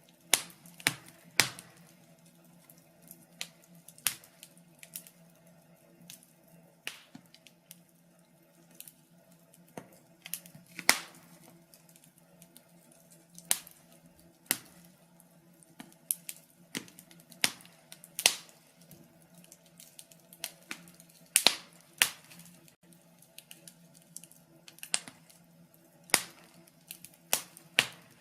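Wood fire crackling in a fireplace: irregular sharp pops and snaps, a few louder than the rest, over a faint steady low hum.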